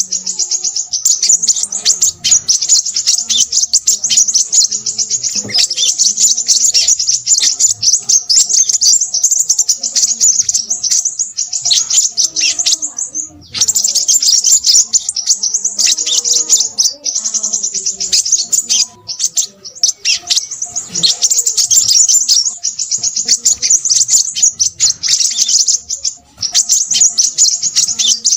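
Crimson sunbird singing: a fast, high-pitched stream of chirps and twitters, almost unbroken, with brief pauses about halfway through and again later on.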